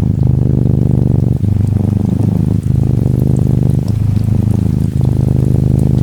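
Norwegian Forest Cat kitten purring close up, a steady rumbling purr that breaks briefly every second or so as it changes breath, with light rain ticking faintly behind it.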